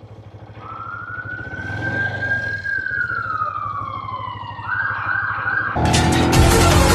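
A siren wails, its pitch rising, holding and then slowly falling, then switches to a fast warble. Loud music cuts in suddenly near the end.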